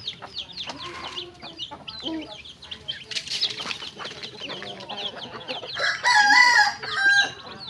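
A flock of chickens clucking and chirping with many short calls, and a rooster crowing loudly about six seconds in.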